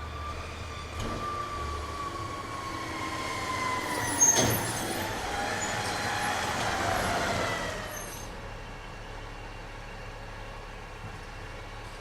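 A truck passing by, its whine falling slowly in pitch as it grows louder and then fades away. A single sharp click comes about four seconds in.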